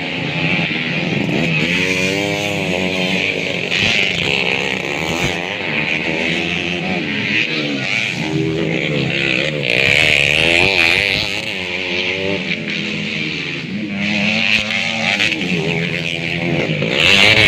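Motocross motorcycle engines revving up and down repeatedly, their pitch rising and falling.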